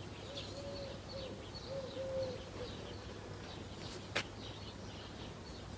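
Small birds chirping faintly in a garden, with a low wavering hum that comes and goes in the first few seconds and a single sharp click about four seconds in.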